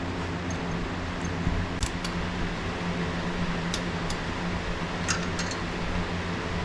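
Steady low mechanical hum, with a few light clicks and taps: once at about two seconds, again near the middle, and a small cluster near the end.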